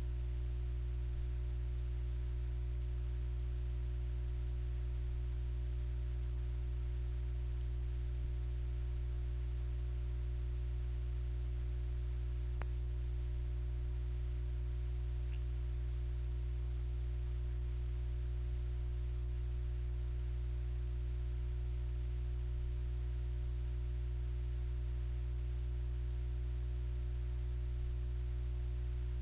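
A steady, unchanging low electrical hum made of several fixed tones, with a single faint click about halfway through.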